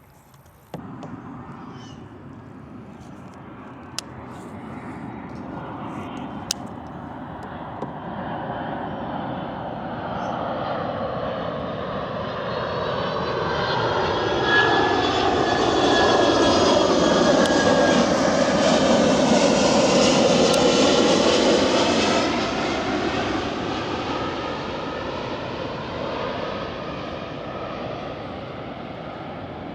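An airplane flying over: its engine drone grows steadily louder, peaks about two-thirds of the way through, then fades away.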